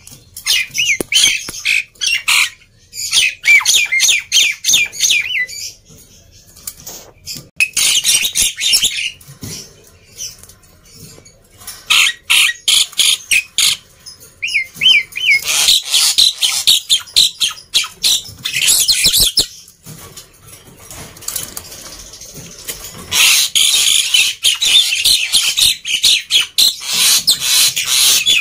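Black-winged myna (jalak putih) chattering loudly in rapid strings of high, repeated notes. The notes come in about five bouts of a few seconds each, with short pauses between them.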